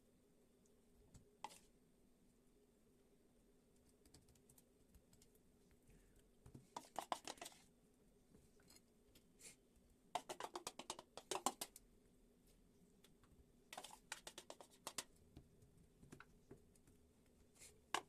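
Faint runs of rapid clicking, three bursts of about a second each with a few single clicks between.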